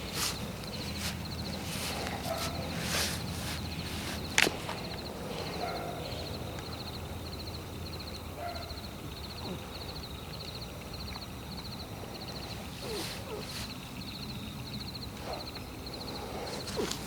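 Footsteps through a forest at night, several in the first few seconds, then a pause, and more near the end, with one sharp loud crack about four and a half seconds in. Insects chirp steadily at an even rate throughout, over a low hum.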